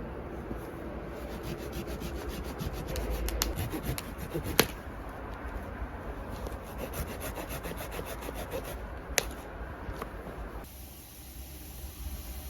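Continuous rubbing sound with two sharp knocks about four and a half seconds apart. Near the end it gives way to a steady hiss.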